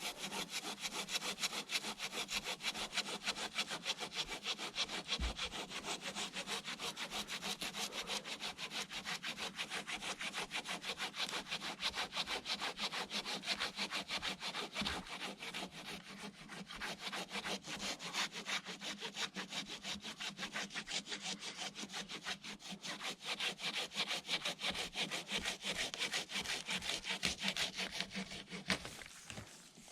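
Silky Zubat pruning saw cutting through a fallen log of about ten to twelve inches, in steady, rapid back-and-forth strokes. There is a short lull about halfway, and the sawing stops just before the end.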